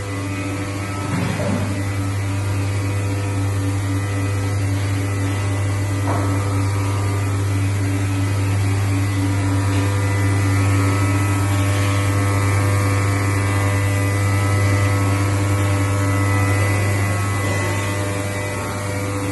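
Steady, loud low machine hum with a few fainter higher tones, unchanging throughout: running electrical or motor-driven equipment.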